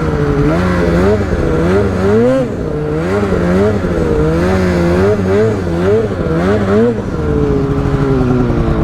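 Two-stroke snowmobile engine under quick repeated throttle blips, the revs surging up and down about every half second. About seven seconds in it settles to a steadier note that slowly falls in pitch.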